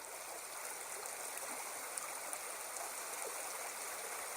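A small stream (a burn) rushing steadily over rocks.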